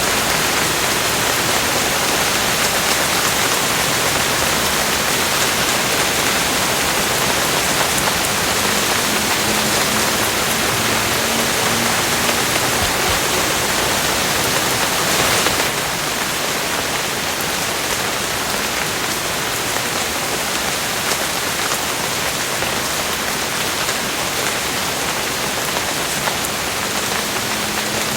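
Steady rain falling in a dense, even hiss of drops. It becomes slightly quieter about halfway through.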